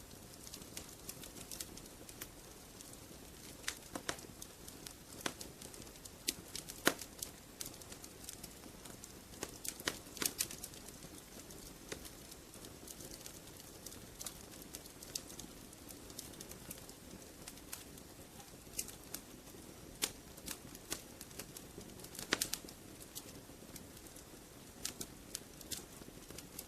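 Wood fire crackling: irregular sharp snaps and pops, a few of them louder, over a soft steady hiss of burning.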